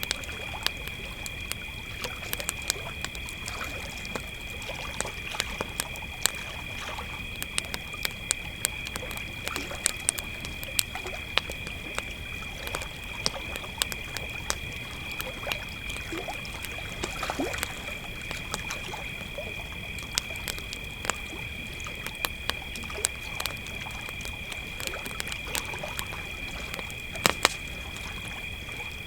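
Crickets trilling steadily at two high pitches while a campfire crackles with frequent sharp pops, two loud pops coming close together near the end.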